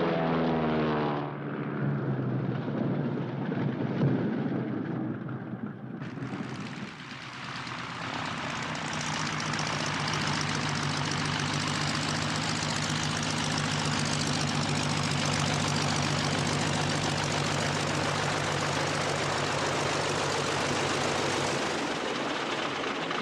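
Single-engine propeller biplane running, with rushing wind noise. The engine pitch falls over the first second or so. From about six seconds in it settles into a steady drone.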